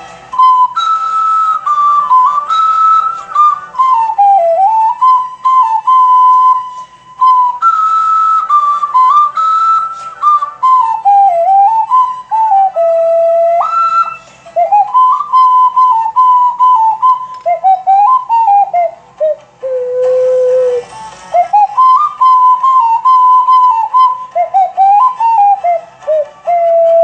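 A tune in a clear, pure, whistle-like tone, moving up and down in phrases over soft backing music.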